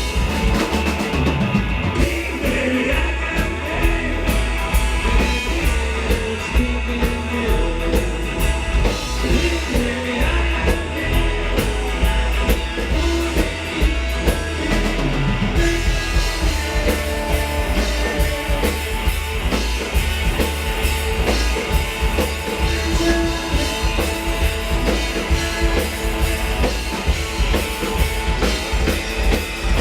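Live rock band playing loud, driving music with drum kit and electric guitar over a heavy bass.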